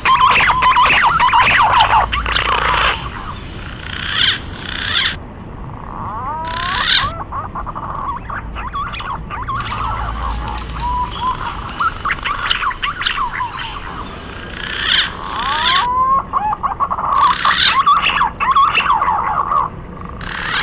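Green pigeons (punai) calling in a chorus of whistled notes, many rising and wavering, overlapping one another in clusters with short lulls. It is a recorded lure call used to draw punai in for hunting.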